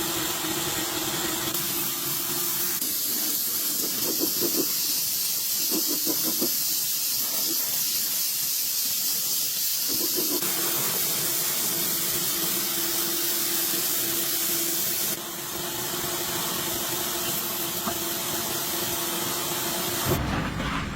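Steady loud hiss with a faint steady hum underneath, changing abruptly in character a few times.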